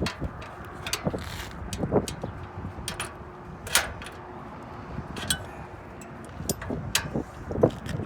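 Irregular clicks and knocks of tools and metal parts being handled during hand work on a condenser fan motor, over a faint steady hum.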